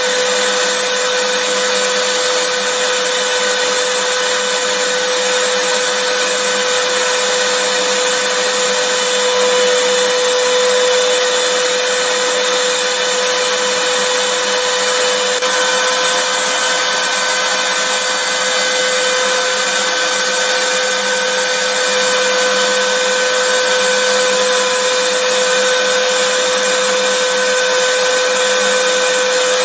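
Vacuum cleaner motor running continuously: a steady rushing of air with a constant whine.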